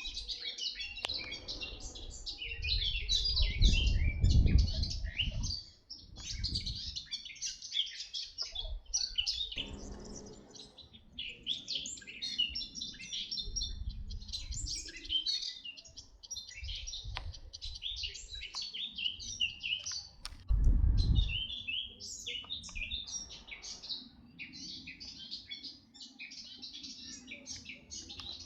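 Small birds chirping and singing continuously, with many short, overlapping high calls. A low rumble swells up about three seconds in and again about twenty seconds in.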